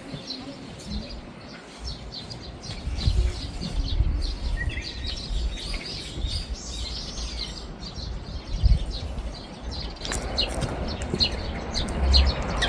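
Small birds chirping and calling over and over, with uneven low rumbling underneath.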